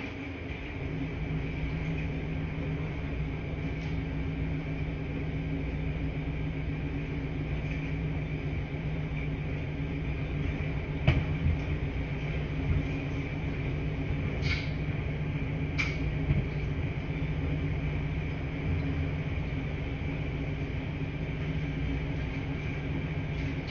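Washing machines running in a laundry room: a steady low hum and rumble, with a few brief clicks or clinks around the middle.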